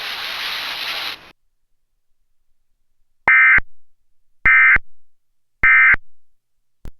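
About a second of radio static that cuts off, then the Emergency Alert System end-of-message code: three identical short bursts of warbling digital data tone, a little over a second apart, signalling that the alert broadcast is over. A brief click near the end.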